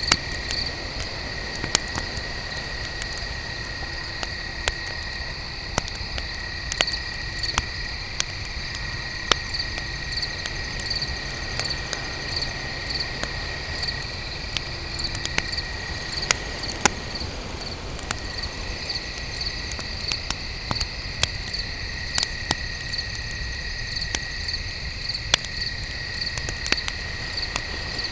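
Crickets chirping steadily in a continuous pulsing trill, with a wood fire crackling and popping in sharp, irregular snaps over a low rumble of flame.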